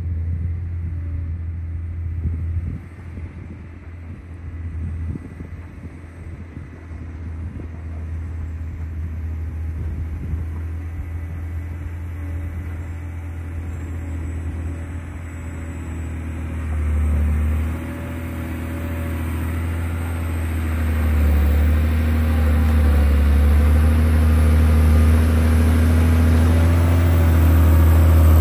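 John Deere 670 GP motor grader's diesel engine running with a deep, steady rumble, growing louder in the second half.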